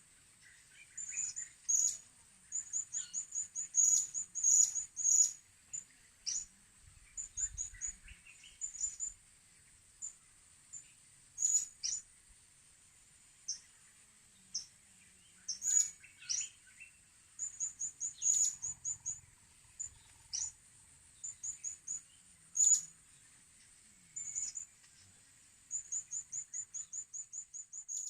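Blue-crowned hanging parrots calling: many short, high-pitched chirps, often in quick runs of several notes, over a steady high hiss.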